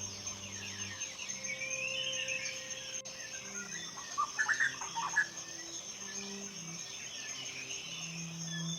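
Forest ambience: birds chirping and calling, with a louder run of quick chirps about halfway through, over a steady high-pitched insect drone. Soft low held tones sit underneath.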